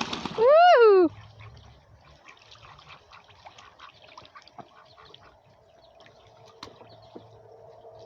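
A single loud call from one of the coop birds, about half a second in, sliding up and then down in pitch over most of a second. Water splashing fades out under it, and after it come faint scattered ticks and a low steady hum.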